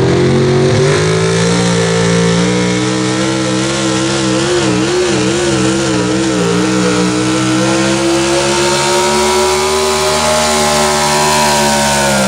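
Super stock 4x4 pulling truck's engine at full revs down the track, its pitch climbing a little, wavering up and down in the middle, then starting to drop near the end as the throttle comes off.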